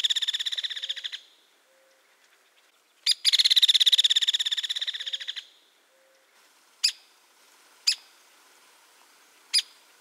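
Hairy woodpecker rattle calls: the end of one rapid run of notes about a second in, then a full rattle of a little over two seconds that fades as it goes. After that come three separate single sharp "peek" notes.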